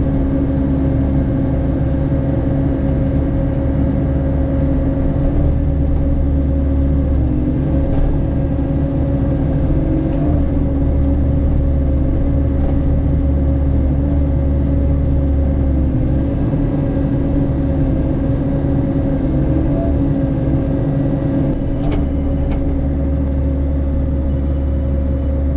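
Mini excavator running steadily under load, driving a hydraulic Rut brush cutter head while clearing a hillside. A low rumble rises and eases every few seconds over a constant hum.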